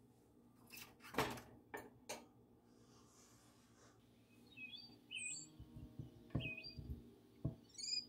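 Small bird chirping: short high chirps repeating from about halfway through. Before them come a few sharp clicks, and soft low knocks are heard under the chirps.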